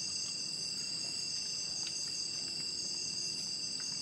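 Night chorus of crickets and other insects: a steady, continuous high-pitched trilling that holds level throughout.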